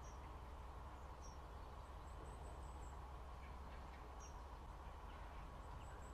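Small birds giving short, high chirps here and there, a quick run of them about two seconds in, over a steady low rumble.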